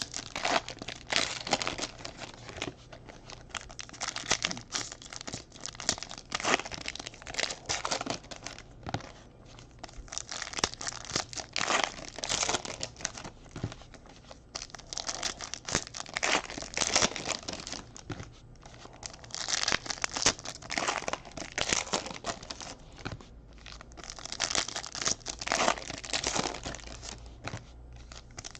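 Panini Prizm Fast Break basketball card packs being torn open, their wrappers crinkling and crackling irregularly as they are handled.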